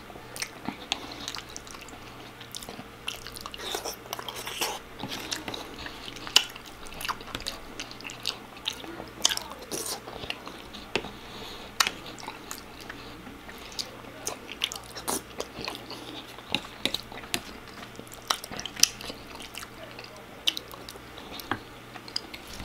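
Close-up sounds of a person eating: biting and chewing food, with many irregular sharp clicks and smacks.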